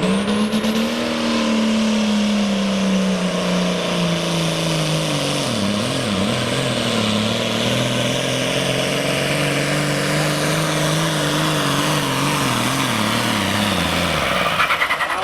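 John Deere 4430 Hot Stock pulling tractor's turbocharged diesel under full load dragging the sled. The engine note sags as the sled loads up, wavers about six seconds in, picks back up and holds, then drops near the end, with a high turbo whine at the start and end.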